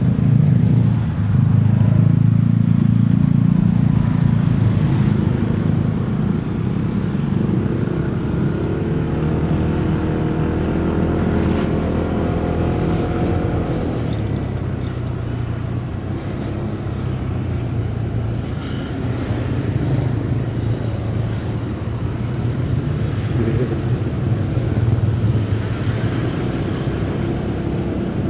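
Motorcycle engine running steadily while riding in city traffic, with surrounding traffic noise. Partway through, an engine note rises in pitch as it speeds up.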